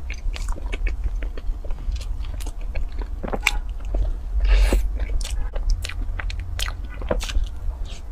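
Close-miked biting and chewing of a soft cream-filled bun coated in shredded meat floss: a run of wet mouth clicks and smacks, with a louder bite about four and a half seconds in.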